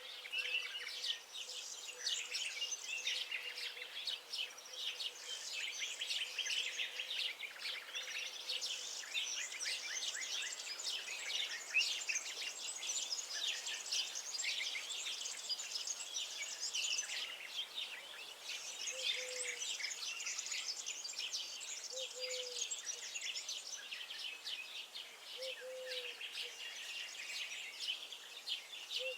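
Many small songbirds singing and chirping together in a dense, continuous chorus of high, rapid notes. In the second half a short, lower note comes in about every three seconds.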